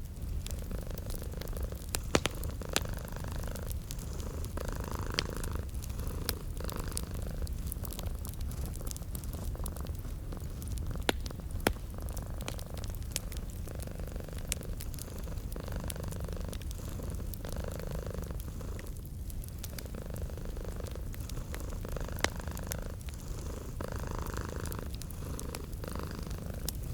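Domestic cat purring steadily, its rumble swelling and easing with each breath. Over it, a wood fire crackles with sharp pops scattered throughout, a few of them louder than the purr.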